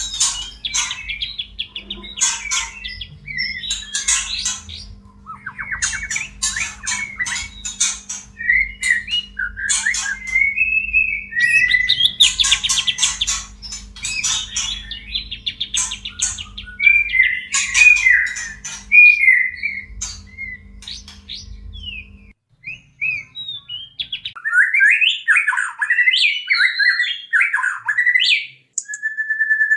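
White-rumped shamas calling excitedly: dense, harsh rattling chatter mixed with short whistled and slurred notes, the breeding-condition (birahi) calls used to bring caged shamas into mating mood. A faint low hum underneath stops suddenly about two thirds of the way through.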